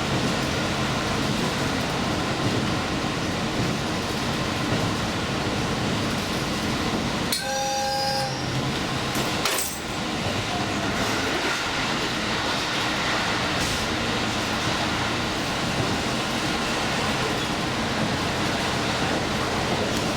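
Limited express train running along the line, a steady rumble of wheels on rails. About seven seconds in, a brief two-note tone sounds for under a second.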